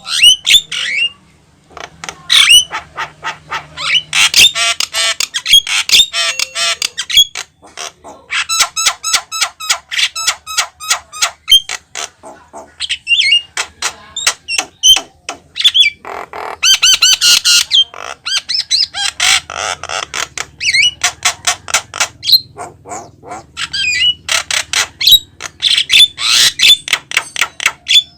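Javan myna singing at full volume: a long, varied run of rapid clicking notes, harsh chattering squawks and short whistled phrases, in fast bursts with brief pauses.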